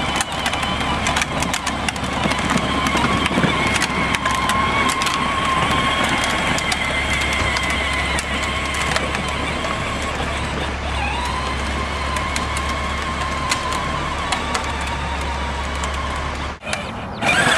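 Ride-on toy tractor driving, its motor and gears giving a steady whine that wavers and dips briefly in pitch partway through, with scattered clicks and rattles. The sound cuts off abruptly near the end.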